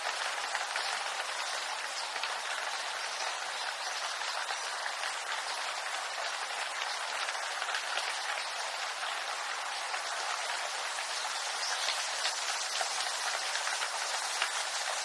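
Steady rain falling in a bamboo grove: an even hiss of countless small drops pattering on leaves.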